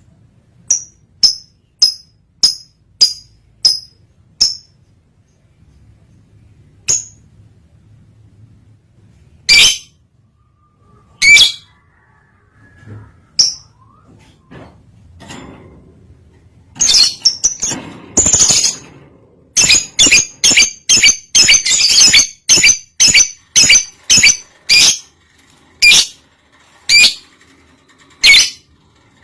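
Lovebird in breeding condition giving short, sharp, high chirping calls. There is a quick run of about two calls a second at first, then a few scattered calls, then a dense, louder series of calls in the second half.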